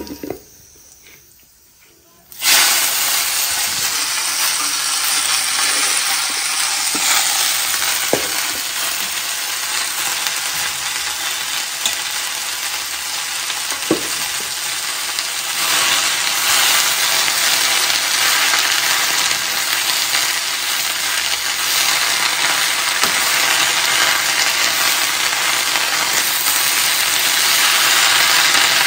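Chopped spinach frying in hot oil and cumin seeds in a steel wok: a loud, steady sizzle that starts suddenly about two seconds in, with stirring by a spatula near the end.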